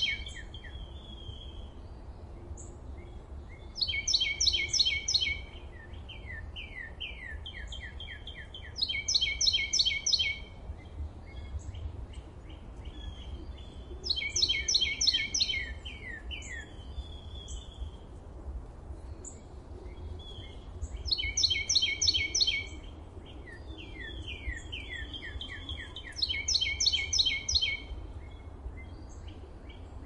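A songbird singing a short, fast phrase of rapid high notes five times, a few seconds apart, with faint chirps in between. Under it runs a steady low rumble.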